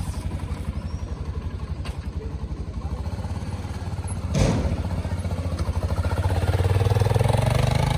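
Racer Panther 250 motorcycle's single-cylinder engine running at low revs with an even pulse, a sharp knock about four and a half seconds in, then the revs rising over the last couple of seconds.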